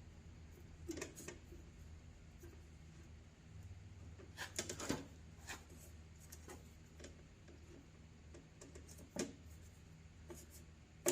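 Faint, scattered scrapes and taps of a tool scooping thick Duraglass fiberglass filler out of its container, over a low steady hum.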